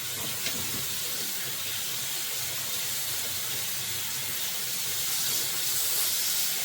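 Breaded chicken strips frying in hot oil, a steady sizzle that grows slightly louder toward the end, with a small click about half a second in.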